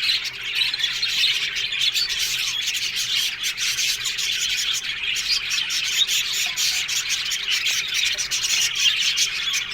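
A colony of budgerigars (budgies) in an aviary chattering all at once: a steady, dense mix of warbling chirps, squawks and clicks.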